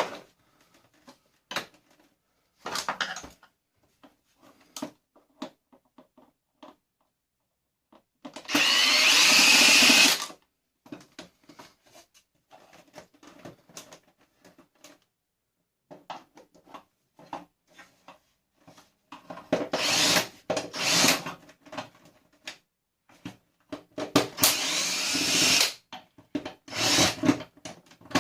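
Power drill running in several short bursts while a vacuum cleaner is dismantled, the longest about two seconds near a third of the way in, its whine rising as it spins. Between the bursts, scattered clicks and clatter from handling the parts.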